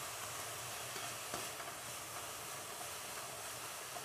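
Sliced green bell peppers sizzling in oil in a nonstick wok while a spatula stirs them, with a light tick of the spatula a little over a second in.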